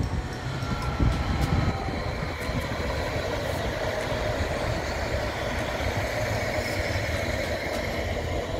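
Stadler FLIRT electric multiple unit passing close by, its wheels running on the rails with a steady rumble and a faint whine. A few low thumps come about a second in.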